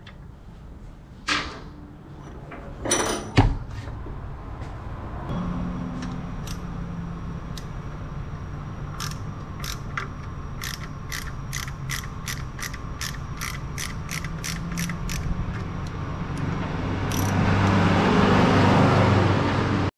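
Workshop tool noise from car repair work: a few sharp knocks, then a steady low hum with even clicking about three times a second, then a rising rush of noise near the end.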